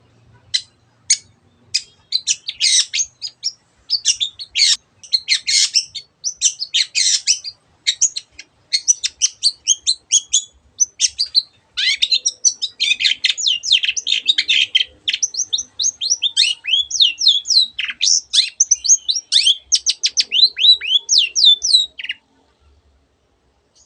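Long-tailed shrike (cendet) singing a fast, varied song of chattering notes and quick downward-sweeping whistles, full of imitations of other birds' calls; it stops about two seconds before the end.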